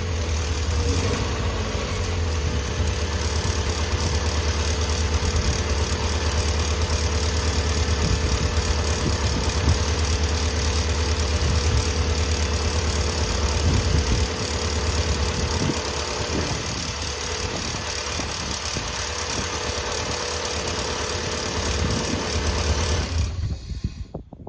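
Mazda Miata engine in the MGiata go-kart chassis idling steadily after sitting unrun for over a year, then shut off near the end.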